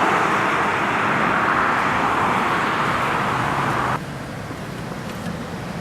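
Road traffic noise of cars going by, a steady rush of tyres and engines that drops off sharply about four seconds in to a quieter background hum.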